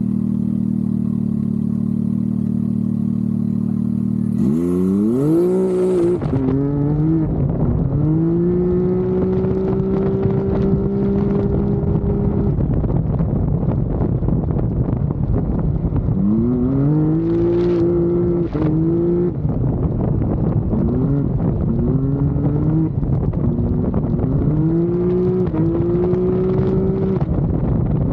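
Can-Am Maverick X3's turbocharged three-cylinder engine idling steadily, then about four seconds in it accelerates hard. The revs climb and hold level, drop off and climb again in several pulls of acceleration and lifting through the run.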